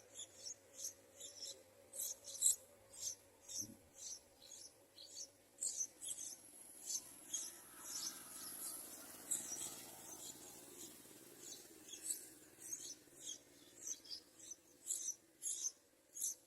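Thin, high-pitched chirps repeated two or three times a second, the begging calls of yellow-vented bulbul nestlings. A single soft knock comes about four seconds in.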